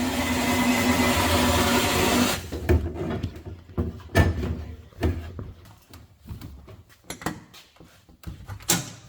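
A workshop machine runs with a loud hiss over a steady hum for about two seconds, then cuts off suddenly. Scattered clicks and knocks of parts being handled follow.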